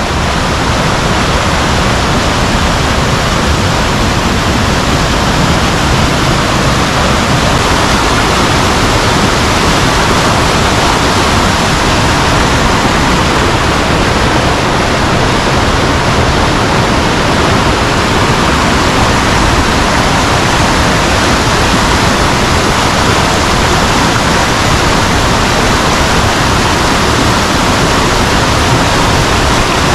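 Fast-flowing river water rushing, a loud steady noise.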